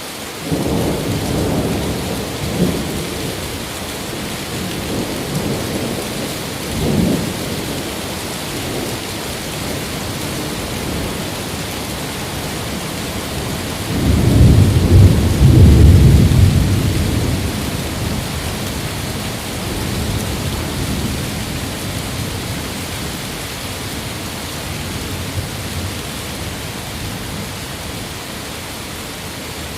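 Thunderstorm: steady heavy rain hissing, with low rolling thunder rumbles. Short rumbles come near the start and again a few seconds later, and a longer, louder roll comes about halfway through.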